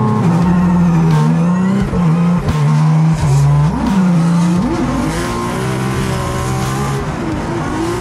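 1200 hp Nissan 370Z drift car's engine running hard, heard from inside the cockpit while drifting, over tyre noise. Its pitch dips and climbs sharply a few times around the middle as the revs change, then holds high and steady.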